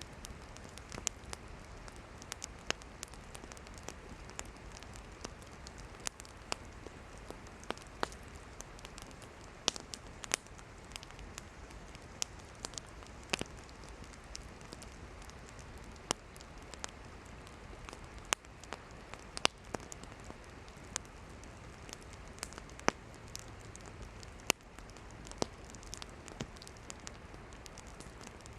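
Campfire of burning firewood crackling: sharp, irregular pops and snaps over a steady soft hiss.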